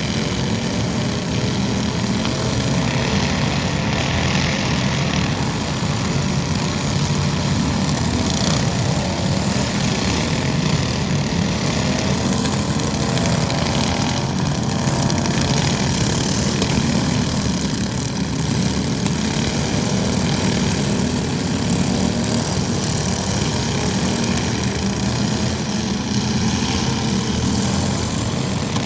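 A small engine running steadily, its pitch wavering slightly up and down.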